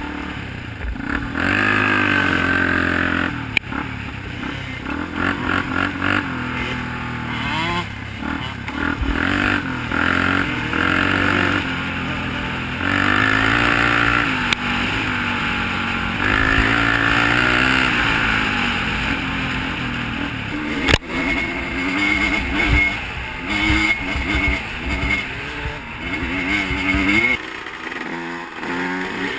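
Off-road vehicle engines revving up and down over and over, their pitch rising and falling through the gears as they ride. A single sharp knock sounds about two-thirds of the way through.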